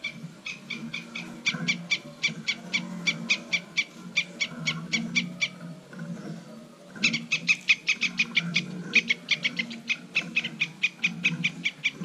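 Eurasian tree sparrows chirping: fast runs of short, even chirps, about five or six a second, that break off for about a second in the middle, over a low steady hum.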